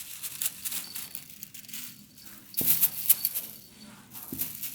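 Cats playing: irregular rustling and scuffling, with a couple of sharper knocks about two and a half to three seconds in and a short thud near the end.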